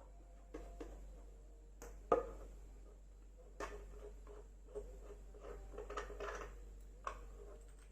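Scattered light clicks and knocks of metal detector parts being handled and fitted together during assembly, the sharpest about two seconds in.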